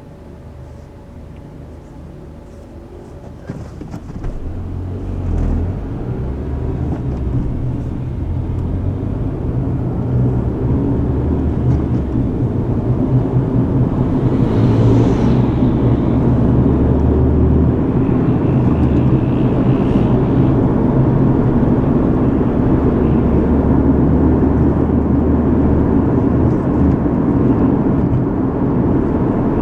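Car driving at night: fairly quiet at first, then from about four seconds in the engine and tyre noise build up as the car gathers speed, settling into a steady road rumble. There is a brief rushing hiss about halfway through.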